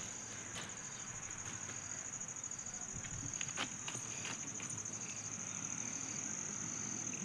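Insects trilling steadily in one continuous high, finely pulsed chirr, with a few faint clicks.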